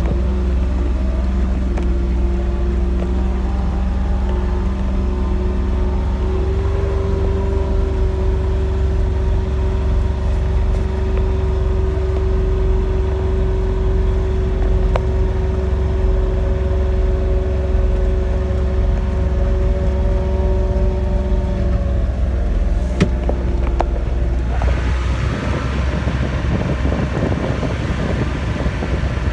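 Kubota RTV-1100 utility vehicle's three-cylinder diesel engine running steadily under plowing load, a low rumble with a steady whine over it. Near the end the whine fades and a rushing hiss comes in.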